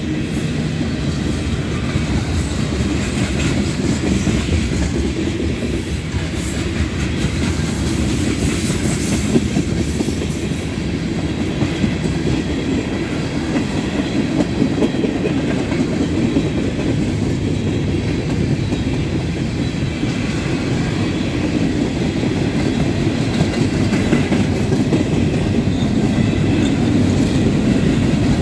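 Freight train cars (tank cars and covered hoppers) rolling past close by, their steel wheels running on the rails with a loud, steady rumble.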